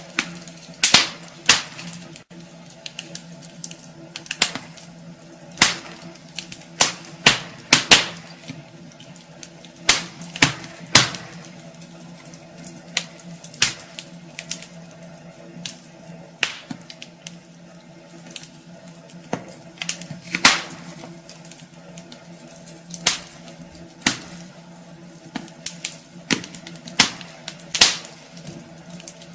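Wood fire in a fireplace crackling, with irregular sharp pops and snaps, some much louder than others, over a steady low hiss.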